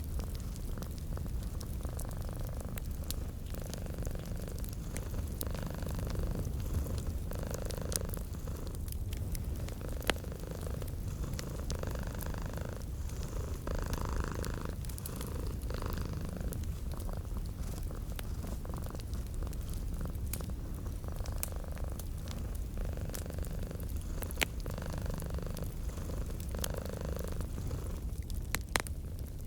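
Domestic cat purring steadily in a low rumble that pulses about once a second, over a wood fire crackling with scattered small pops and a few sharper snaps.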